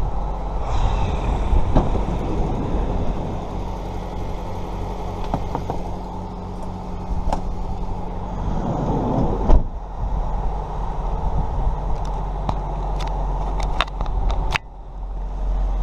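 Steady running noise of a car, with scattered light clicks. Most of the noise cuts off suddenly near the end, leaving a low hum.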